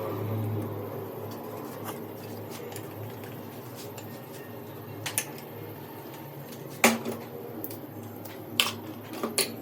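Metal tools clinking sharply against metal parts, a handful of separate clinks with the loudest about seven seconds in, over a steady low hum.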